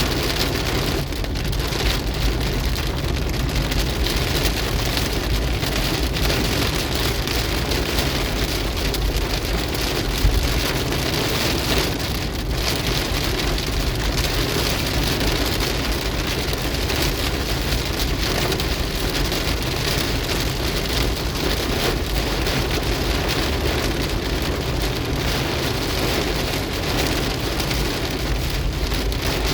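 Heavy cloudburst rain falling steadily on a car's roof and windscreen, heard from inside the car, with a low rumble beneath it.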